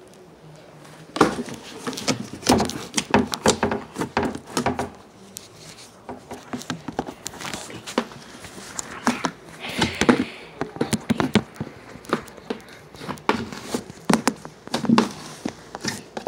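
Hands squishing and kneading a large batch of homemade slime: irregular sticky clicks and pops that start about a second in.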